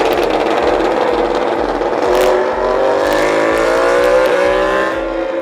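High-revving racing engine running loud and hard on track, its pitch climbing steadily through the second half as it accelerates, then levelling off near the end.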